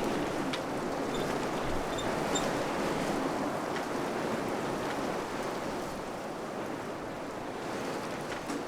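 Wind blowing steadily: an even rushing noise that eases slightly in the second half, with a few faint high ticks in the first few seconds.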